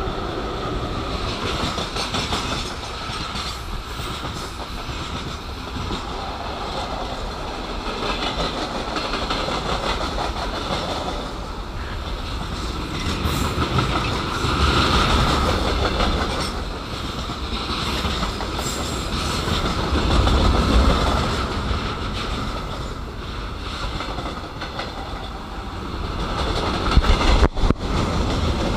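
Freight train wagons rolling past at close range: a continuous rumble and clatter of steel wheels on the rails that swells and eases in waves as the tank cars and boxcars go by.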